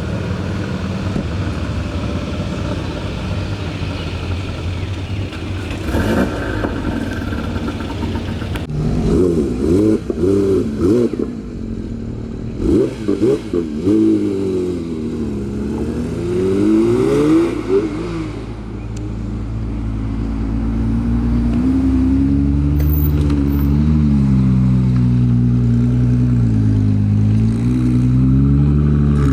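Car engines passing close by. From about 9 to 18 seconds an engine is revved in a series of quick blips that rise and fall in pitch. From about 20 seconds a deep engine runs low and steady, its pitch swaying gently as it rolls past.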